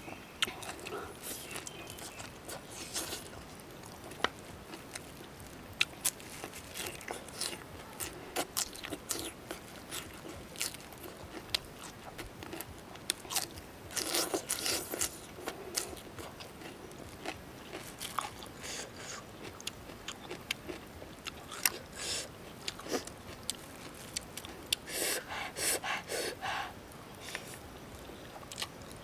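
Close-up eating sounds: chewing and crunching of fresh lettuce leaves and instant noodles, with many short sharp mouth clicks and louder bursts of crunching about halfway through and again near the end.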